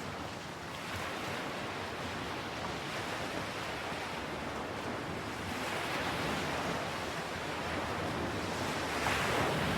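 Ocean waves washing ashore: a steady hiss of surf that swells about six seconds in and again, a little louder, near the end.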